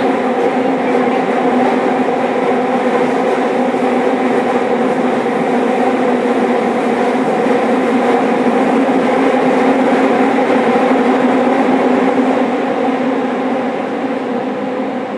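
Running noise inside a motor car of a JR Kyushu 305 series electric train fitted with Toshiba permanent-magnet synchronous traction motors, travelling through a subway tunnel. A loud, steady rumble with a hum of several steady tones, easing slightly near the end.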